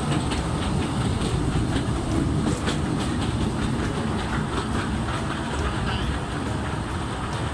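Kurobe Gorge Railway narrow-gauge trolley train running along the track: a steady rumble with irregular clicks of the wheels over the rails.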